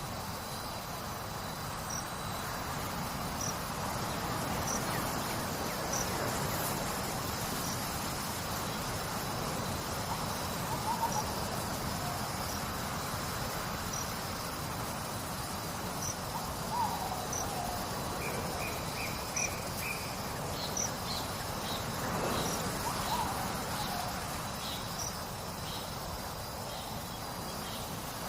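Crickets and other insects trilling steadily, one high chirp repeating about every second and a half, over an even hiss of trickling water. A few short bird calls come through now and then.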